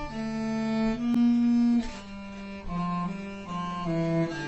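Cello playing slow, held bowed notes, the pitch changing about once a second.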